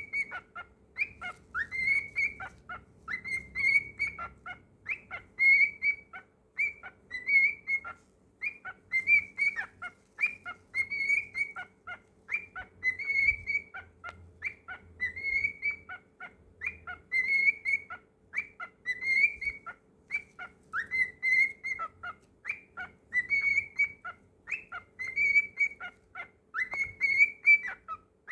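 Pet cockatiel whistling its song: a long run of short whistled notes at about the same pitch, each sliding up and then held, coming about one to two a second without a break.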